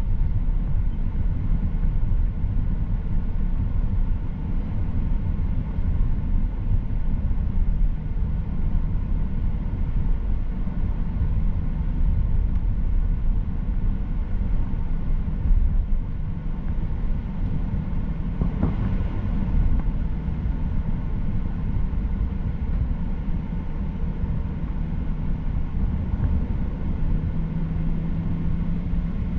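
Steady cabin noise of a Boeing 737-800, heard from inside the cabin: a continuous low rumble of the CFM56 engines and airframe with faint steady whine tones, not rising or falling.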